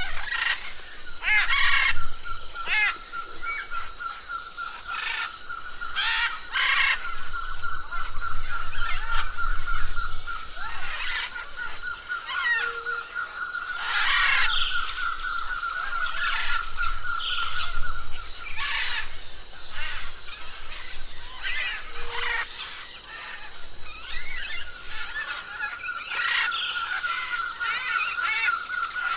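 A chorus of birds chirping and calling, with many short calls overlapping. A steady, rapid trill runs through most of it, stopping for several seconds past the middle and then resuming.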